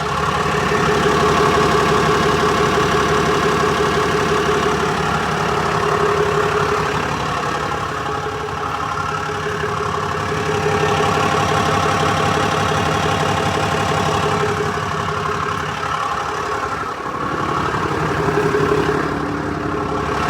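A 2018 Ram 5500's 6.7-litre Cummins inline-six turbo-diesel, a replacement engine two weeks in service, idling steadily with a fast ticking, knocking sound.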